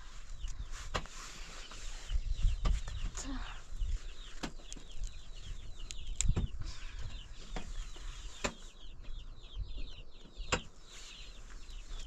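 Chickens calling, a dense run of many short high chirps, with a sharp knock about every two seconds.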